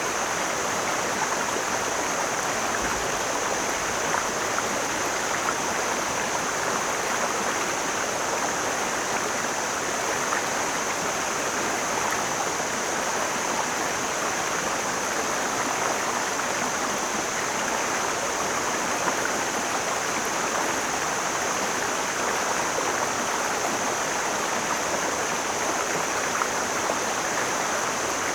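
Mountain stream flowing over rocks: a steady, even rush of water with a constant high hiss above it.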